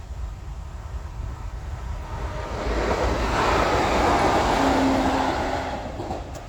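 A vehicle passing by: its rushing noise swells over a couple of seconds, peaks about four seconds in, then fades away.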